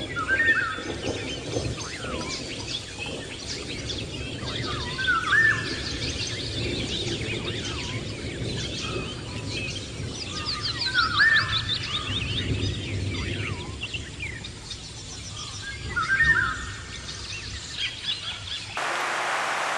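Wild birds singing: many small chirps, with one bird repeating a short whistled phrase about every five seconds, over a low rumble. Near the end it cuts suddenly to a steady hiss.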